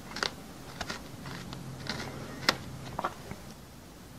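Crunchy chewing: a series of short, sharp crunches that thin out near the end.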